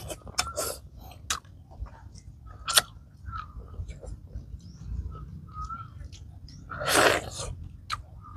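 Close-up sounds of a person eating with their hands: chewing, with scattered wet mouth clicks and lip smacks, and one loud breathy burst about seven seconds in.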